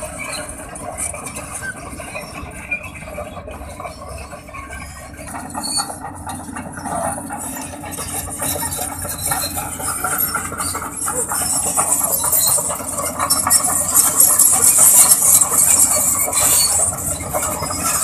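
Sany SR150C rotary drilling rig travelling on its steel crawler tracks: a dense, high-pitched metallic rattle and squeal of the track chain, getting louder through the second half.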